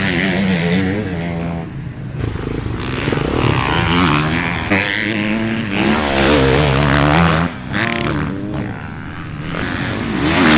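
Dirt bike engines running and revving, the pitch rising and falling again and again.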